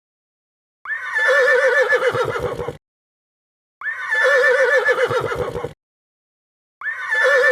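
Horse whinnying three times, each call about two seconds long with a quavering, trembling pitch that ends in a low snorting rumble; the calls are the same sound clip repeated.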